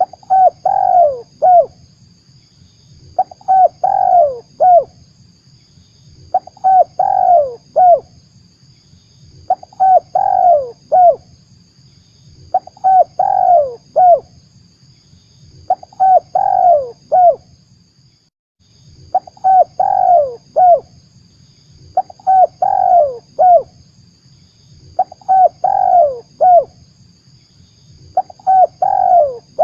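Spotted dove (tekukur) cooing, a phrase of several coos repeated about every three seconds, used as a lure call to draw other doves. A faint steady high hiss runs underneath.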